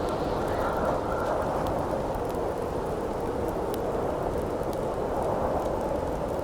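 Steady howling wind, the rush wavering in pitch, with sparse sharp crackles from a burning campfire.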